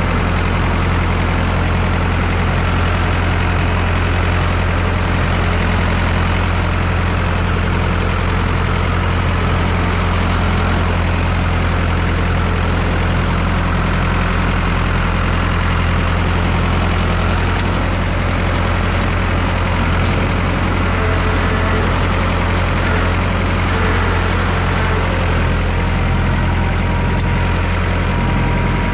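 Massey Ferguson 3165 backhoe tractor's diesel engine running at a steady speed with a deep, even hum.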